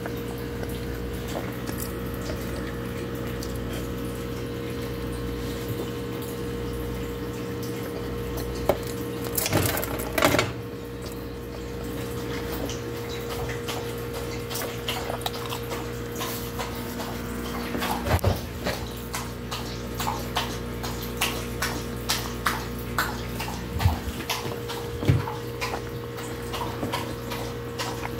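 Close-up chewing and wet mouth sounds of someone eating pizza, as irregular clicks and smacks that come thickly in the second half, over a steady electrical hum. A brief louder noise about ten seconds in.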